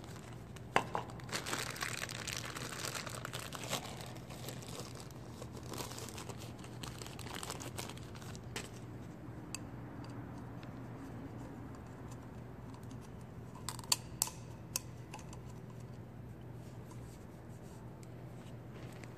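Plastic crinkling and rustling as parts are handled, with a sharp click about a second in and two more clicks about fourteen seconds in.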